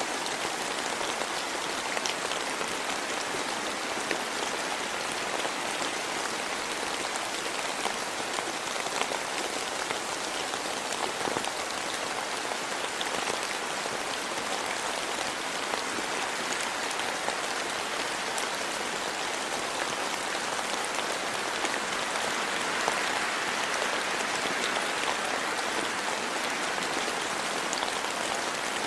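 Steady rain falling, an even hiss with scattered drops ticking, swelling slightly about three quarters of the way through.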